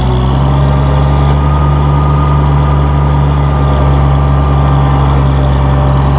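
1966 Oliver 1650 row-crop tractor's six-cylinder gas engine running steadily as the tractor is driven in fourth gear.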